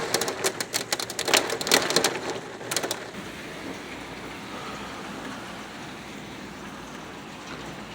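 Hailstorm with heavy rain: a dense clatter of hailstones striking a hard surface for about the first three seconds, then settling into a steady hiss of falling rain and hail.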